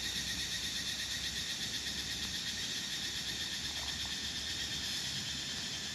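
Steady, high-pitched chorus of forest insects buzzing.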